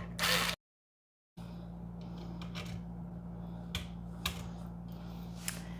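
A few light, isolated clicks and taps as small plastic printer parts and a sensor are handled, over a steady low hum. The sound cuts out completely for under a second near the start.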